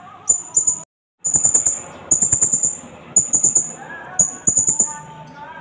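Blue-crowned hanging parrot (serindit) calling in rapid runs of very high, sharp chirps, several quick notes per run, with the sound cutting out completely for a moment about a second in. A mosque loudspeaker voice wavers faintly underneath.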